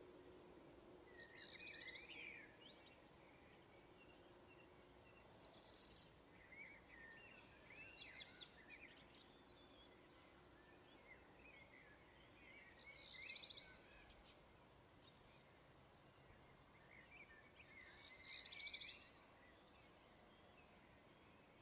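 Faint birdsong: short bursts of chirps and quick trills every few seconds over a low, steady background hiss.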